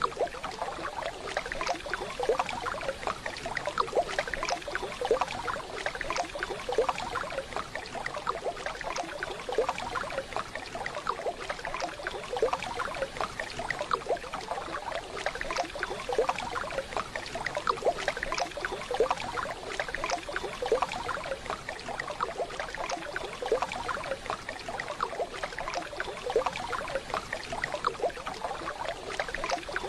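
Waterfall water running and splashing steadily, a dense stream of small irregular splashes.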